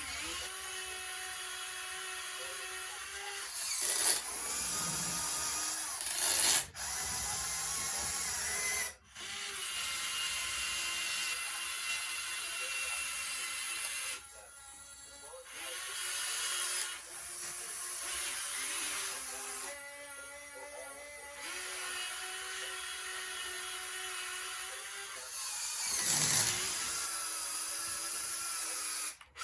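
Whine of the electric motors and hydraulic pumps of radio-controlled excavators and a loader working. The pitch steps up and down as the load changes, with a few short, sudden breaks.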